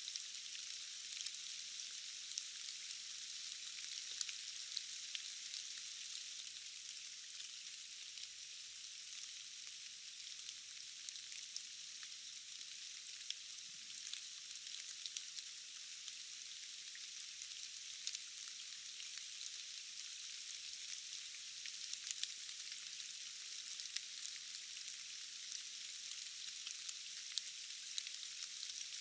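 Steady rain: an even hiss of many small drops, with scattered sharper drop ticks. The sound is thin, with no low rumble under it.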